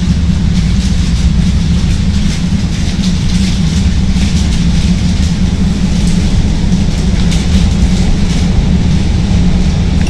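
Steady low rumble of a CTA Green Line elevated train, heard aboard, with faint scattered clicks and rattles over it.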